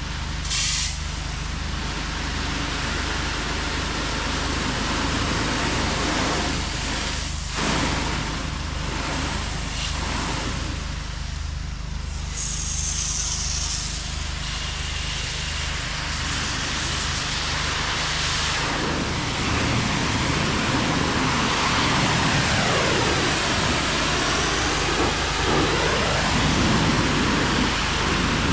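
Pressure washer running: a steady engine hum under the hiss of the high-pressure water spray, the hiss changing in tone as the wand sweeps the surface.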